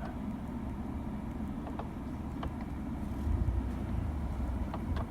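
A vehicle driving slowly along a rough field path, heard from inside the cab: a steady low engine and road rumble that grows a little louder about three seconds in, with a few light ticks or rattles.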